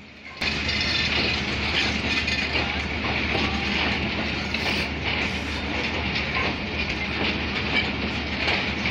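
Karakoram Express passenger coaches rolling slowly past as the train pulls out of the station. Steady running noise of steel wheels on rail with frequent clicks and clanks, cutting in suddenly about half a second in.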